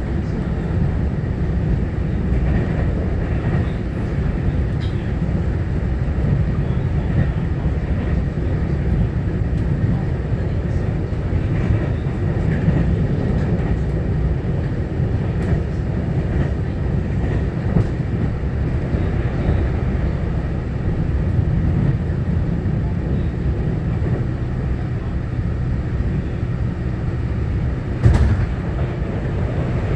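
Steady rumble of a Taiwan Railway EMU900-series electric commuter train running between stations, heard from inside the passenger car: wheels on rail and running gear. A single louder knock comes near the end.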